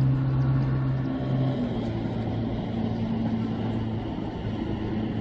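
An engine running steadily with a low hum, its pitch dropping slightly about a second and a half in.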